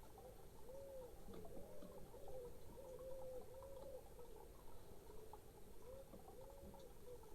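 Pigeon cooing, faint: a long run of short, low, arched coos repeating one after another.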